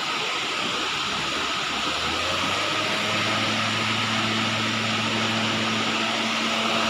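Steady rushing of a waterfall. About two seconds in, a low steady hum joins it.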